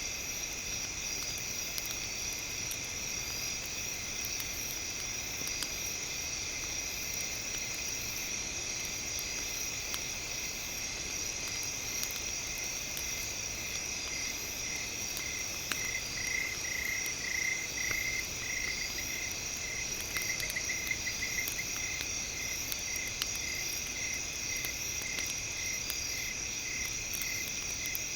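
Insects chirring in steady, layered high tones over a low even hiss. About halfway through a run of rapid pulsed chirps joins in, with faint scattered clicks.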